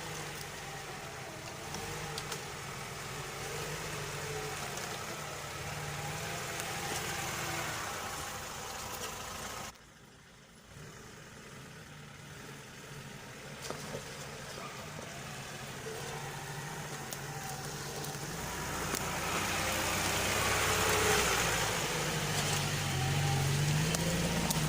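Lada Niva's engine running at low revs, cut off briefly about ten seconds in, then louder with the engine note climbing over the last few seconds.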